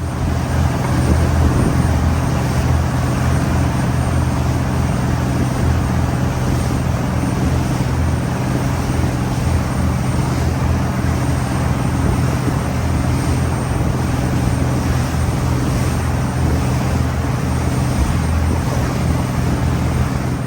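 Boat's outboard motor running steadily at speed, a constant low engine hum under a loud wash of noise.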